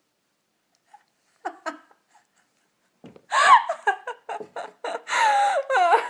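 Loud laughter in a rapid run of bursts with swooping pitch, starting about three seconds in.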